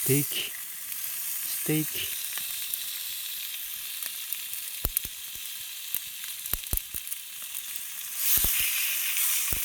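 Thick pork neck slices sizzling on a stone slab heated in a wood fire, a steady hiss with a few sharp pops. The sizzling grows louder about eight seconds in.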